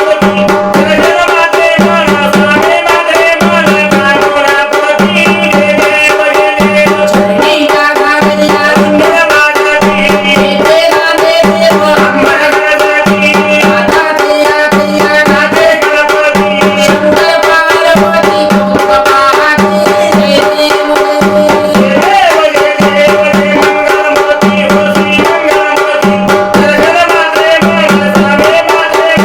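Maharashtrian folk music with the sambal, a pair of stick-played drums, keeping a steady beat of about one low stroke a second under held, wavering melodic tones.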